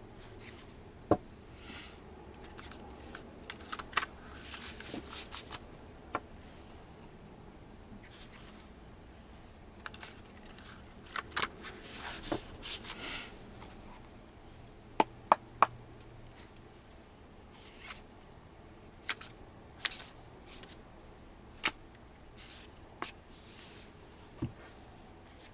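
A deck of tarot or oracle cards being shuffled and handled: irregular bursts of rustling swishes and sharp card snaps and taps, coming in clusters with quieter gaps between.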